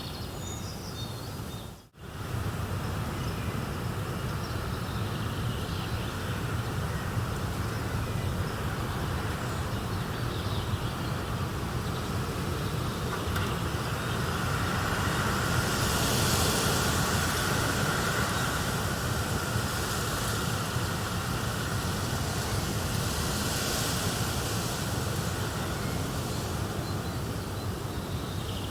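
Steady outdoor nature ambience, a low rumble under an even hiss that swells in the high end twice; it drops out for a moment about two seconds in, with a few faint chirps just before.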